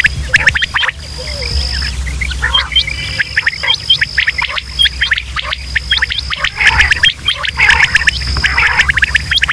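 Quail calling over and over in a rapid run of short, sharp chirps, with a steady high whistle coming and going and a low hum underneath. It is a recorded call of the kind played to lure quail.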